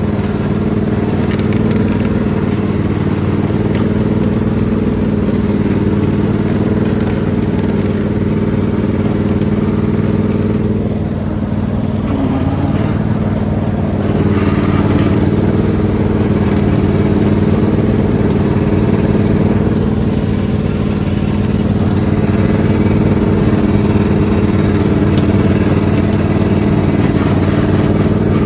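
Lawn mower engine running steadily. It eases off briefly about halfway through, then runs a little louder.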